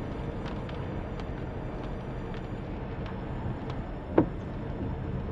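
Car driving slowly, a steady low road and engine noise, with scattered faint clicks. A single sharp knock about four seconds in is the loudest sound.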